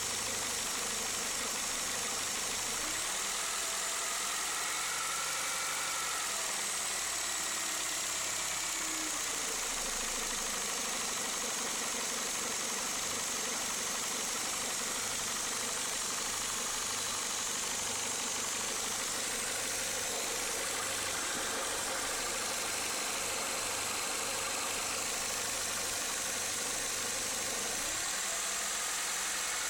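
Renault Clio Mk2 8-valve petrol engine idling steadily, with a faint wavering whine over the running noise: a noise that has appeared since the belt was changed.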